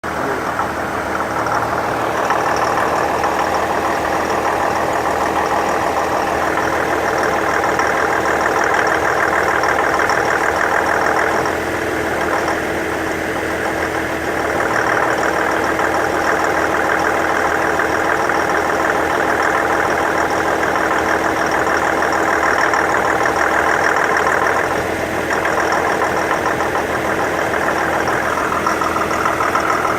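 2015 Infiniti QX70's engine running steadily with a pinging, knocking noise, the fault being shown.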